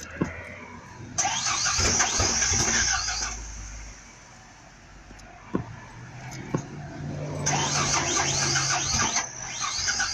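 A truck's starter cranking the engine in two long bursts, one about a second in and another from about seven and a half seconds, with a short break near nine seconds. The engine does not catch: the truck won't start.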